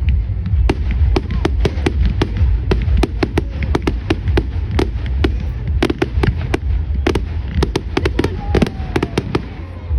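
Fireworks going off: a rapid, irregular string of sharp cracks and bangs, several a second, over a steady low rumble.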